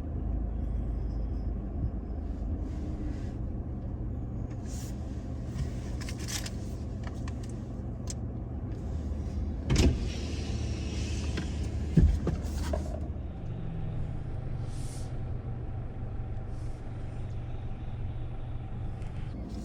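Pickup truck driving slowly on a dirt trail, its engine giving a steady low drone. There are two sharp knocks, about ten and twelve seconds in, the second the louder.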